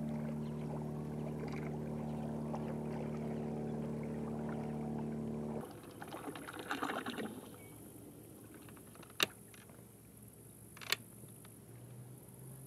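Small boat's motor running steadily, then cutting off abruptly about halfway. A brief swish of water follows, then two sharp clicks about a second and a half apart.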